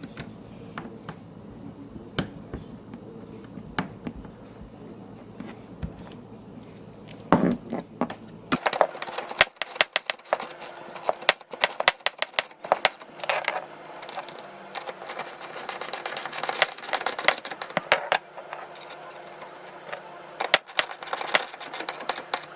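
Light handling knocks as a refrigerator door hinge is fitted, then from about a third of the way in a ratchet wrench clicking rapidly in bursts as the hinge bolts are run in.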